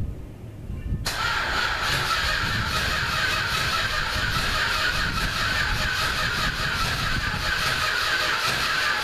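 1966 Chrysler 300's V8 running steadily just after a sub-freezing cold start, on its automatic choke. About a second in, the sound jumps suddenly louder and brighter and then holds steady.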